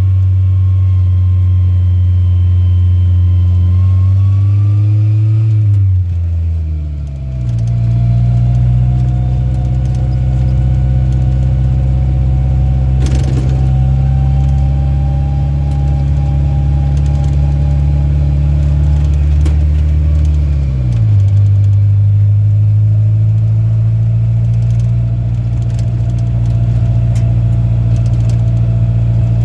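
Rat rod farm truck's engine running on the road, heard from inside the cab. The engine pitch holds fairly steady, with two sharp drops in revs: one about six seconds in and another about two-thirds of the way through.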